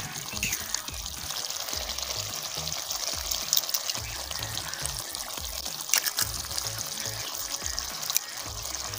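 Potato and masala curry sizzling steadily in an aluminium pot, while eggs are cracked open over it, giving a few sharp clicks. Soft background music plays underneath.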